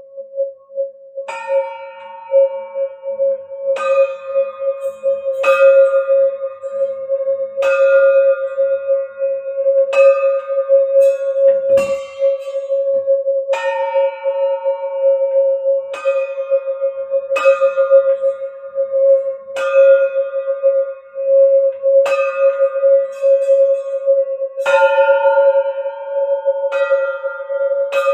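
A singing bowl held in one steady, unbroken hum, with higher-pitched bell-like strikes ringing over it about every two seconds, each one ringing on until the next.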